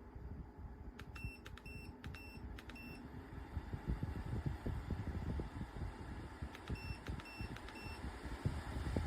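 Bladeless tower fan's control panel beeping as its buttons are pressed: a quick run of about five short, high beeps, then four more later. Underneath is the fan's low air noise, which gets louder about four seconds in.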